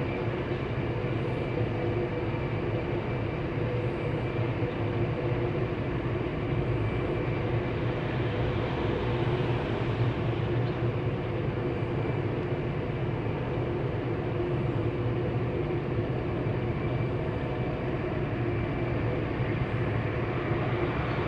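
Steady mechanical hum: a constant low drone with a faint high whine over a wash of noise, unchanging throughout.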